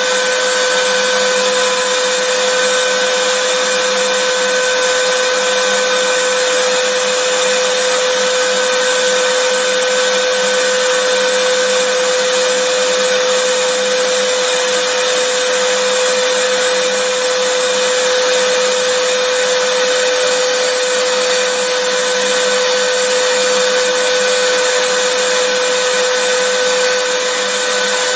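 Vacuum cleaner running steadily, a constant whooshing hiss of air with a steady motor whine held at one pitch.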